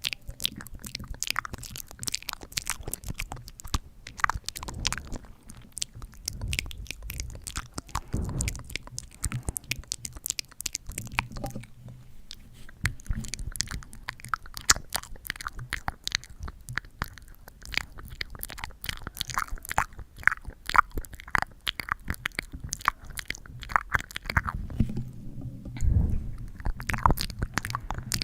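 Close-miked ASMR sticky sounds: a dense, uneven run of small crackles and pops, like a tacky surface being pressed and pulled apart again and again, with a couple of deeper low rumbles from handling.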